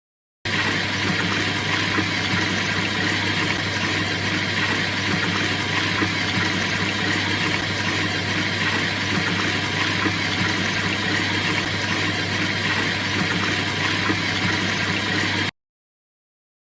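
A washing machine running: a steady hum over even machine noise, which starts suddenly about half a second in and cuts off suddenly near the end.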